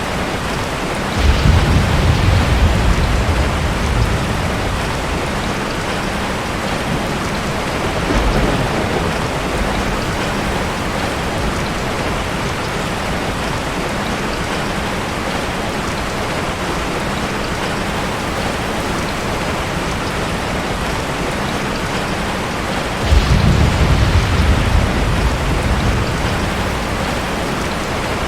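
Steady heavy rain, with rolls of thunder about a second in and again near the end, and a shorter, fainter rumble in between.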